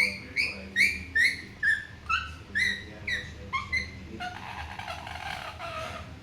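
Pet parrot chirping, a quick run of short repeated calls about two to three a second, then a longer, harsher noisy sound for about two seconds near the end.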